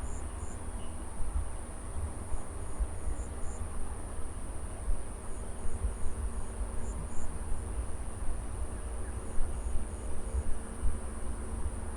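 Insects trilling steadily at a very high pitch, with short high chirps in small clusters every few seconds, over a constant low rumble.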